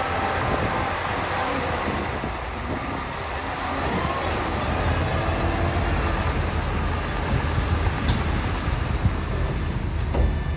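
Heavy diesel earthmoving machinery, bulldozers working dirt, running under load: a steady deep rumble with a faint squeal in the first few seconds and a sharp knock near the end.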